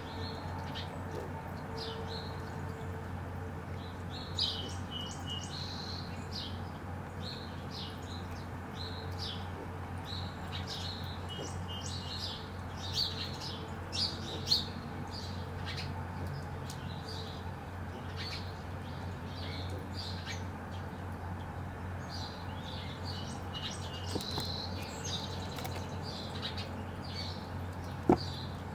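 Small birds chirping and twittering again and again, short high chirps over a steady low hum, with a few sharp taps, the loudest near the end.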